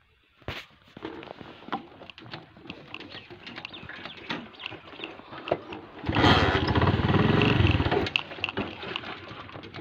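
Motorcycle engine firing up about six seconds in and running loudly for about two seconds before dropping back, with scattered clicks and knocks of work on the bike before it.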